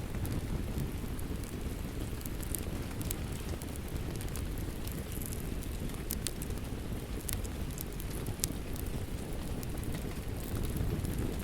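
Steady rain mixed with a crackling wood fire: a dense even hiss and rumble, with scattered sharp pops and crackles throughout.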